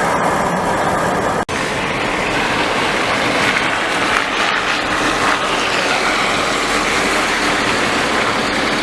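Steady road noise of a car driving, its tyres running through snow and slush. The sound cuts out for an instant about one and a half seconds in.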